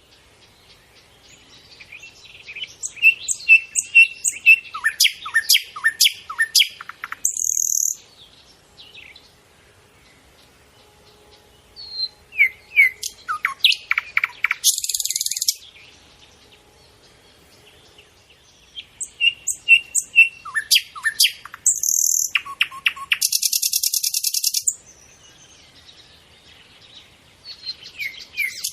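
A songbird singing the same song three times with pauses between. Each song is a run of quick high chirps and downward-sweeping whistled notes that ends in a short harsh buzz.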